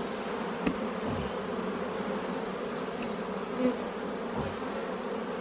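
Honeybee colony humming steadily from an open hive with its frames being lifted out, with a short click about two-thirds of a second in.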